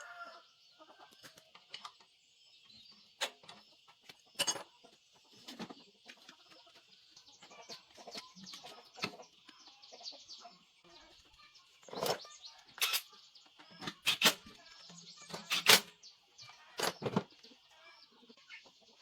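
Chickens clucking over a steady high-pitched hiss, broken by a series of sharp knocks, several of them in the second half, the loudest near the end.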